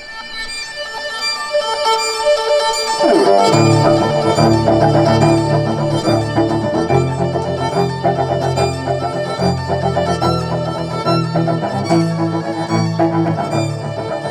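A live band playing: a single melody line at first, then bass and the full band come in about three seconds in and play on.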